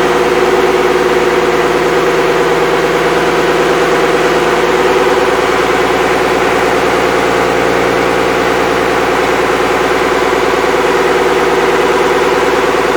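Cummins 5.9L 12-valve inline-six diesel running steadily at an even speed, on its first run after a complete rebuild.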